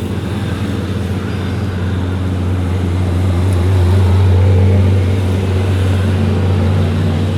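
A vehicle engine running with a steady low hum, growing louder toward the middle and then easing off, amid road traffic.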